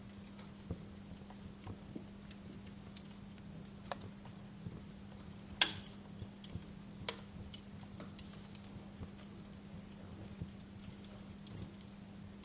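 Wood fire crackling, with irregular sharp pops and one louder pop about halfway, over a steady low hum and hiss.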